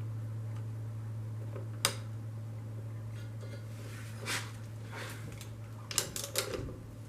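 Metal tools and bike parts clinking as they are handled: a sharp click about two seconds in and a few quick clinks near the end, over a steady low hum.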